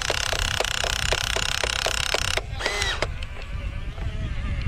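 Small electric motors and gears of an RC excavator whirring, with a regular ticking about four times a second. A little past two seconds in the sound changes abruptly to quieter whirring with a brief rising and falling whine.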